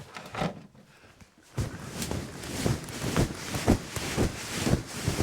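Crunching footsteps in snow, about two a second, starting about a second and a half in after a quiet moment.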